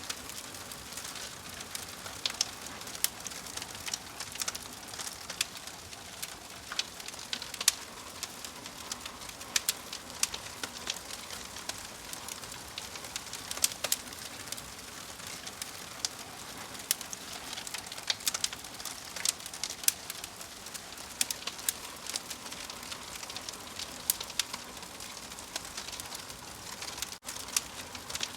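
Wood fire crackling, with frequent sharp pops over a steady hiss, and birds calling in the background.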